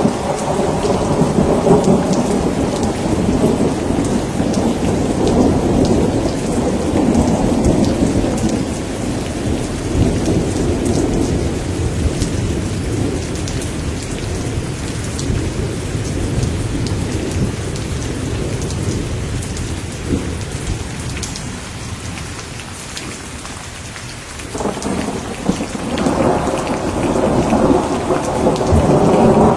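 Thunderstorm: steady heavy rain with long rolls of thunder. The rumble fades out past the middle and a new roll swells up near the end.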